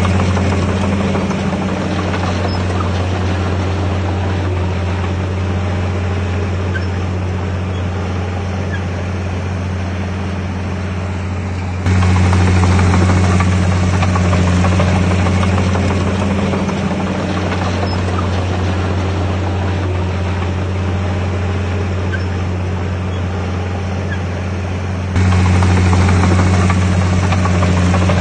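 Komatsu D51PX bulldozer's diesel engine running steadily with a deep, even hum. The loudness jumps up abruptly twice, about 12 and 25 seconds in.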